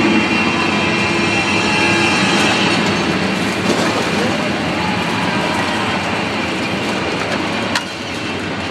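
Loud, steady roar of a large engine running. A sharp click and a drop in level come near the end.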